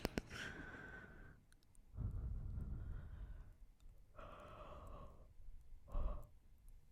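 A person yawning close to the microphone: four drawn-out, breathy, voiced yawns, the last one short and the loudest, after a couple of sharp clicks at the very start.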